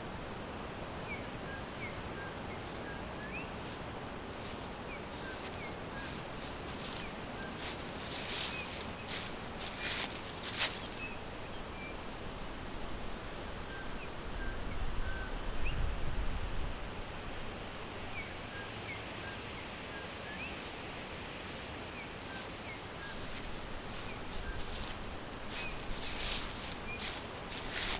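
Forest ambience: a steady background hiss with small birds chirping faintly, short high chirps scattered throughout. Bursts of rustling come about a third of the way in and again near the end, with a low rumble midway.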